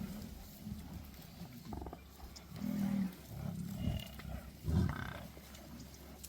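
Lions growling: a series of short, low growls, the loudest a little under five seconds in.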